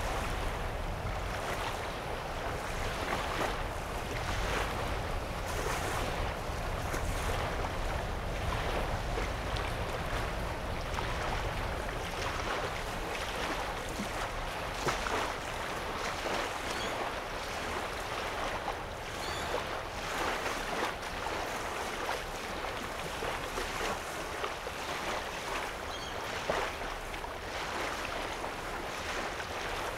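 Small lake waves lapping on the sandy shore: a steady wash broken by frequent small splashes.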